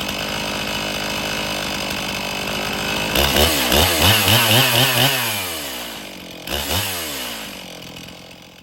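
Two-stroke chainsaw on an Alaskan chainsaw mill cutting a poplar log, running steadily under load. A little past three seconds in, the engine pitch swings quickly up and down several times as the cut finishes, then falls away, rises once more briefly and winds down.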